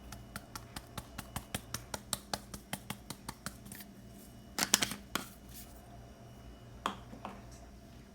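Plastic spice container being tapped and shaken to dispense dried basil, giving a rapid run of light clicks, about five a second, for three or four seconds, then a short burst of louder clicks and a couple of single knocks.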